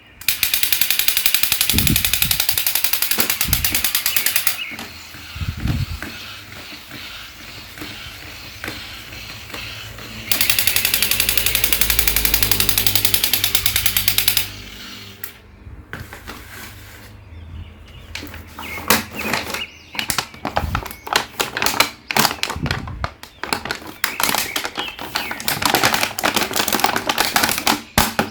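Fast rattling clatter in two stretches of about four seconds each, then a run of irregular clicks and taps.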